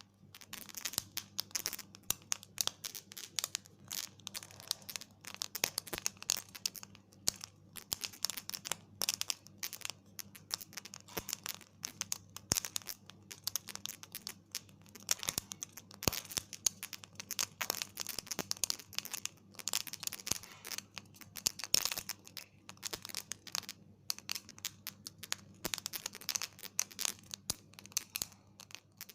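Rice grains popping as they roast: a dense, irregular crackle of small sharp pops.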